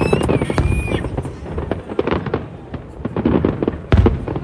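Aerial fireworks going off in quick succession: deep booms and dense crackling bursts, with a heavy boom about four seconds in and a high whistling tone gliding in the first second.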